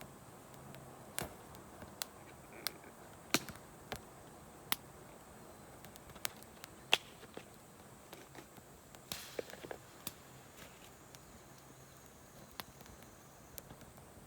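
Wood campfire crackling: about a dozen sharp, irregular pops and snaps over a faint steady background, with a small cluster of crackles about two-thirds of the way through.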